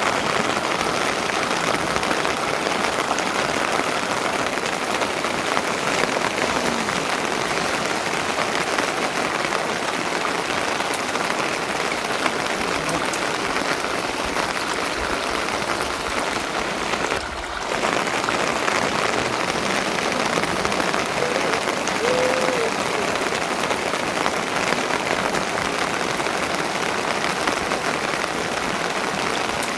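Steady rain, falling without a break. There is a brief dip in level about two-thirds of the way through.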